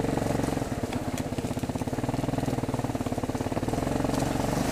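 ATV (four-wheeler) engine running steadily with an even firing pulse.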